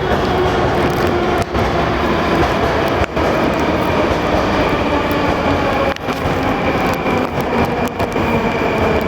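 Moscow Metro 'Rusich' (81-740/741) articulated train moving in an underground station: a steady rail rumble with several whining tones that shift slowly in pitch.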